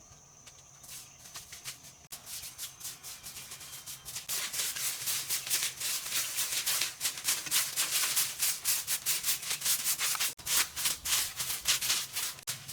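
Rapid, rhythmic scrubbing strokes, several a second, starting faint and growing much louder about four seconds in, over a low steady hum.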